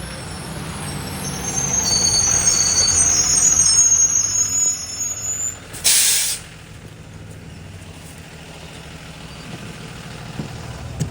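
2020 Blue Bird Vision school bus slowing with high-pitched brake squeal over its engine hum, then a short loud air-brake hiss about six seconds in as it stops, after which the engine idles quietly.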